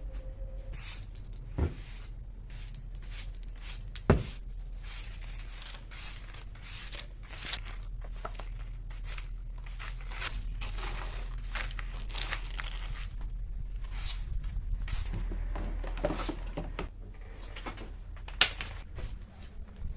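Scattered rustling and crinkling of things being handled, broken by sharp knocks a little under 2 s in, about 4 s in and near the end.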